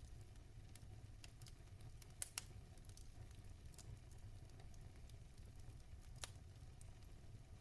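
Log fire crackling in a fireplace, faint: scattered sharp pops and ticks over a low steady rumble, with two louder pops close together about two seconds in and another near six seconds.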